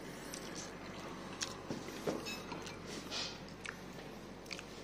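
A man chewing food close to the microphone, with scattered small clicks and soft mouth noises.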